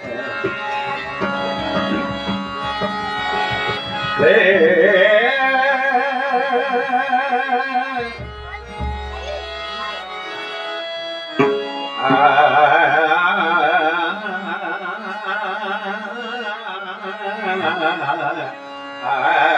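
Bhajan music: quick hand-drum strokes for the first few seconds, then a singer holding long, wavering notes without words over a steady drone. There is a deep drum stroke about eight seconds in, and a second long held phrase from about twelve seconds.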